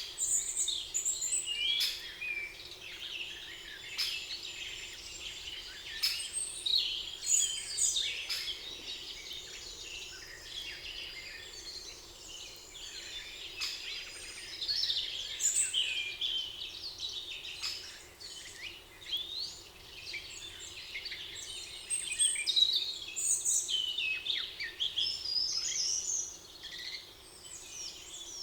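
Several songbirds singing at once, a continuous chorus of overlapping chirps, trills and whistles, with a faint steady background hum.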